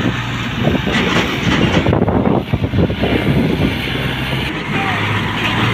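Tractor diesel engines running hard with a steady low drone and a dense rattling clatter, as one tractor pushes another.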